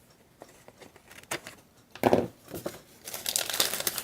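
Thin cellophane bag crinkling as it is handled. There are scattered light rustles at first and a brief thump about two seconds in, then dense, continuous crinkling from about three seconds in.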